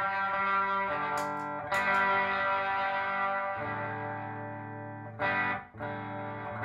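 Electric guitar (PRS SE Custom 24) played through a Beautiful Noise When the Sun Explodes reverb pedal into a clean Splawn amp and a 2x12 cabinet with Vintage 30 speakers. A handful of chords are struck a second or two apart, each ringing on in a long reverb wash.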